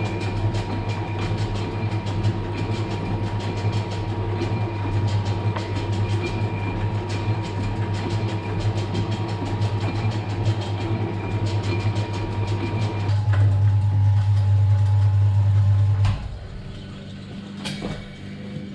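Milling machine cutting a 20-degree chamfer along a workpiece edge under hand feed: a steady machine hum with a fine, rapid chatter from the cut. About three seconds before the end the cutting sound stops suddenly, leaving a quieter, lower hum and a single click.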